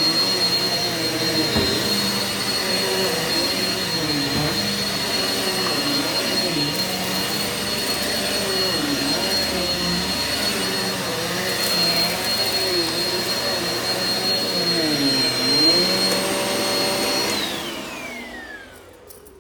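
Eureka vacuum cleaner running on carpet with a steady high whine, its motor pitch dipping briefly now and then. Near the end it is switched off and the whine falls away as the motor spins down.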